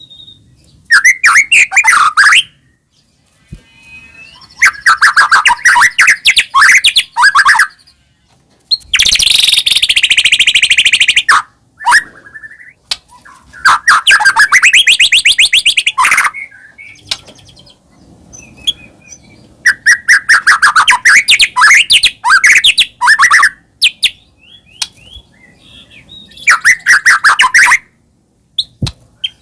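White-rumped shama (murai batu) singing at full volume in bouts of rapid, varied phrases separated by short pauses. About nine seconds in, one bout turns harsh and rasping.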